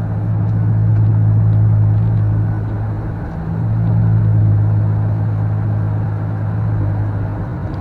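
Car driving, a steady low engine and road drone that swells a little twice.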